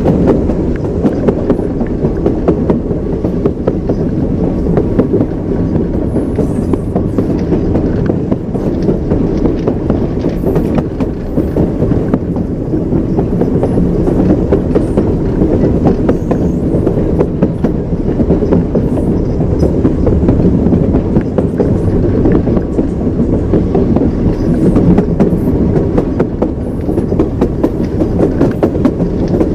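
Wheels of a moving train clattering over rail joints, with a steady low rumble under the clicking.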